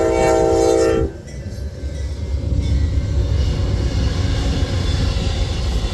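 Passenger train's horn sounding a multi-note chord that cuts off about a second in, followed by the steady low rumble of the train passing.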